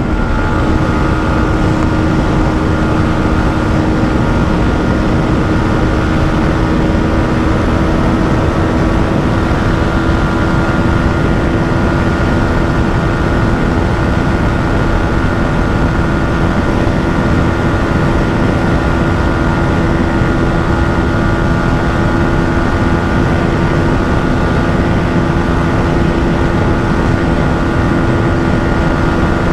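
Yamaha MT-15's 155 cc single-cylinder engine held at full throttle in sixth gear, its revs high and nearly steady on a top-speed run of around 135 km/h. Heavy wind rush runs beneath the engine note.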